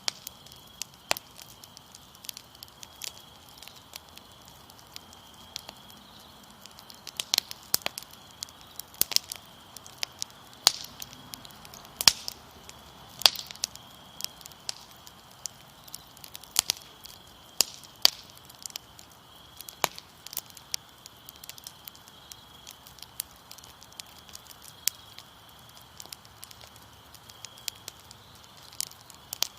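Fire crackling with irregular sharp pops, over a steady high chirping of crickets.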